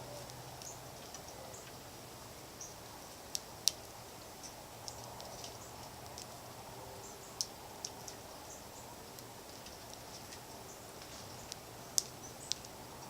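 Small birds at a seed feeder: scattered sharp ticks and clicks with brief high chip notes, a few clicks louder than the rest, over a faint steady low hum.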